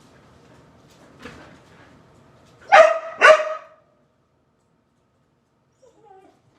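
Dog barking: a soft bark about a second in, then two loud barks in quick succession, at a bird trapped in the room.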